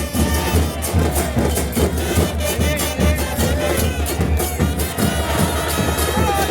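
Football supporters' band music: drums beating a steady rhythm under brass and voices singing a chant.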